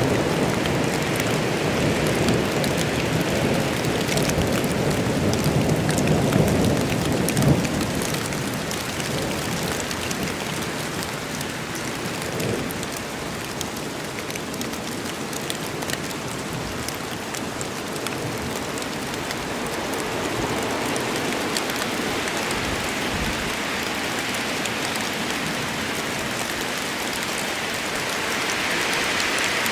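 Rain storm in a forest: steady rain with a low rumble of thunder in the first several seconds that dies away.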